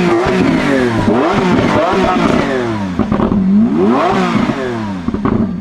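Lamborghini Revuelto's V12 with a Gintani aftermarket exhaust being revved while parked: several blips rising and falling over the idle, the highest about four seconds in, then it drops back to a steady idle near the end.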